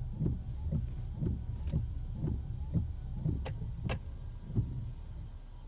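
Tesla Model X windshield wipers running on high speed, sweeping back and forth with a soft thump at each turn, about twice a second. Two sharp clicks come a little past halfway, and the wipers stop near the end.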